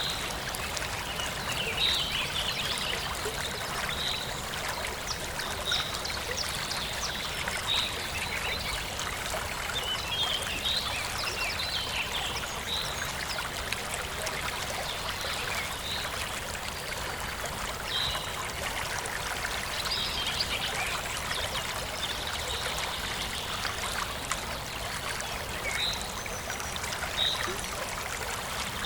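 Forest stream flowing steadily, with birds chirping: short high calls repeating every second or two over the water.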